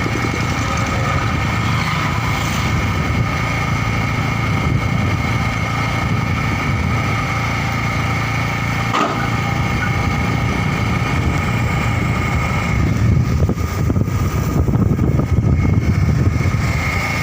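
Motorcycle engine running at a steady speed while riding, a low rumble with a steady whine over it. A single sharp click comes about halfway through, and the rumble grows louder and more uneven near the end.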